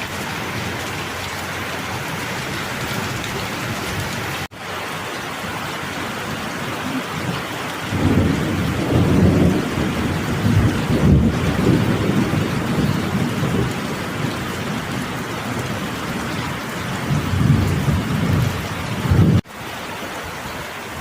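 Steady rain with rolling thunder rumbling for several seconds from about eight seconds in, and again near the end. The sound cuts out for an instant twice, at about four and a half seconds and just before the end.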